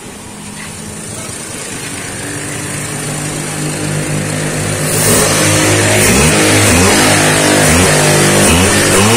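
Daihatsu Xenia 1.0's three-cylinder engine being revved: the pitch climbs gradually, then from about halfway rises and falls in several quick throttle blips. It picks up revs lightly and runs evenly on its new ignition coil, the cylinder-3 misfire cured.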